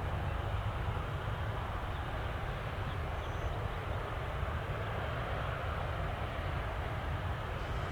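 Steady low rumble of distant jet airliner engines, even throughout with a faint hiss above it.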